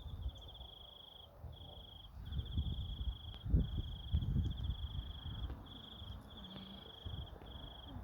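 An insect trilling high and steadily in pulsed bursts about a second long, separated by short gaps. Low rumbling bumps from close handling come in the middle, louder than the trilling.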